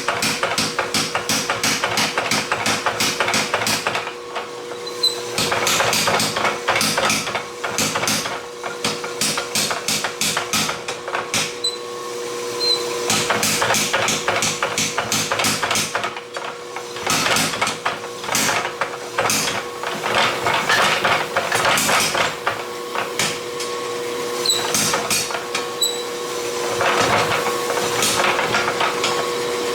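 Hand hammer striking a steel sword blade on an anvil during forging, in quick runs of blows with short pauses between them. A steady hum runs underneath.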